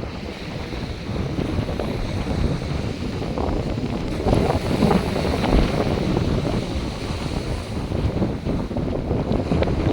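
North Sea surf washing onto the beach, with wind buffeting the microphone in uneven gusts.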